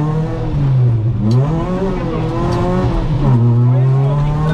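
Ford Fiesta ST150's 2.0-litre four-cylinder engine heard from inside the rally car's cabin, its revs dipping, climbing again, then dropping sharply about three seconds in and holding lower. Two short clicks come through about a second and a half and two and a half seconds in.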